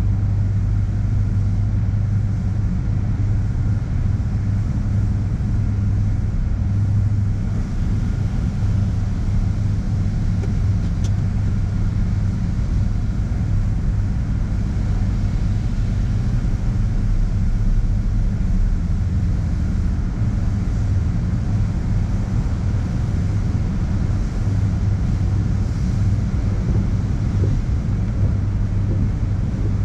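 Steady low rumble inside a car riding through a conveyor tunnel car wash, the car's engine and the wash machinery running.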